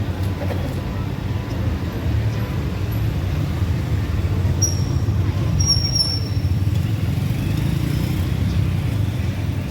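Steady low rumble like nearby road traffic or wind, with two short high-pitched chirps about halfway through.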